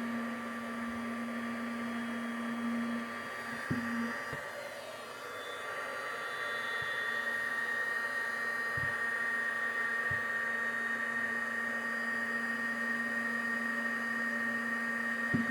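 Craft heat embossing tool running steadily, its fan blowing with a constant whine while it heats embossing enamel to melt it. A few faint knocks sound along the way.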